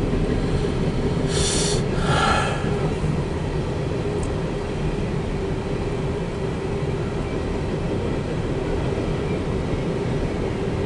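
CSX empty coal train rolling by with a steady rumble of the rail cars. There are two short rushing bursts about a second and a half and two seconds in.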